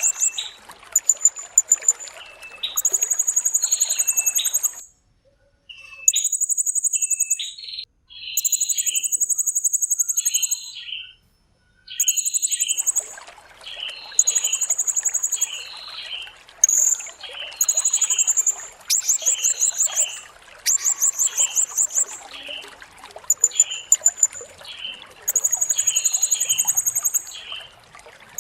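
Blue-crowned hanging parrot (serindit) singing: repeated high, rapid trills lasting about a second each, alternating with shorter, lower chirps. A steady hiss like trickling water runs underneath, dropping out for several seconds in the middle.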